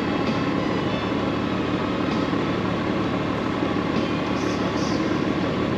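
Honda Gold Wing DCT's flat-six engine running steadily under way, blended with road and wind noise.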